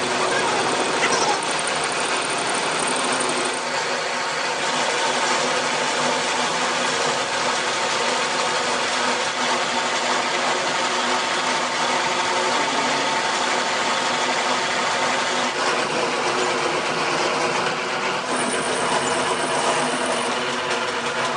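A workshop machine running steadily: a constant motor whir with several held tones over a noisy hiss.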